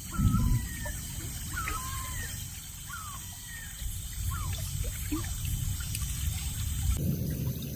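Water trickling and gurgling, with many small plops and bubbling chirps over a low rumble. A dull thud comes just at the start, and the sound changes abruptly near the end.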